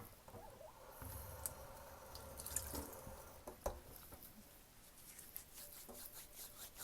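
Kitchen sink tap running a small stream of water, with a few light clicks and knocks. Near the end come quick, evenly spaced rubbing strokes, hands working wet coffee grounds.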